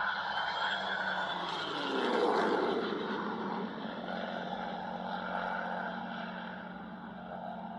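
An aircraft flying past, loudest about two seconds in, its pitch dropping as it goes by, then a steady fading roar.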